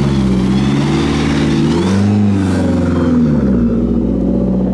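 Car engine revving as a car moves past, its note dropping about two seconds in, rising again, then settling to a steady lower note.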